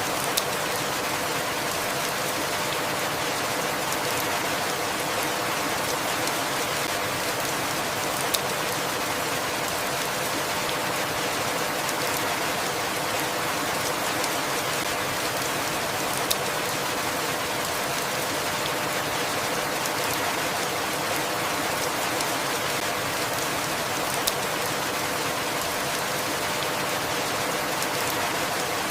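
Steady, even rainfall, a dense hiss of drops, with a single sharper drop or tap about every eight seconds.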